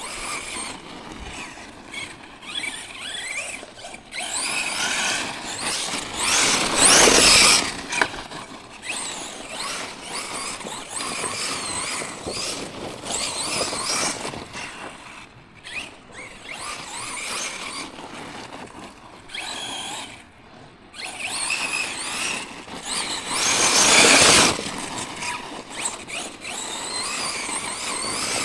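Tekno MT410 2.0 electric RC monster truck running over rough ground, its motor and drivetrain whining up and down in pitch with the throttle. It is loudest in two surges, about seven seconds in and again near the end.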